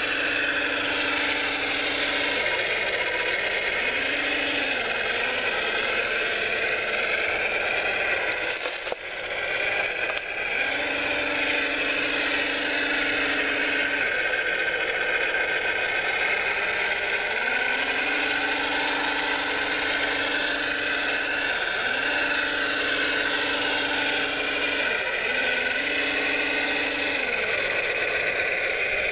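Radio-controlled model construction machines running, with electric motors and gears whining in several tones that glide up and down. A low hum cuts in and out about half a dozen times, and the sound dips briefly about nine seconds in.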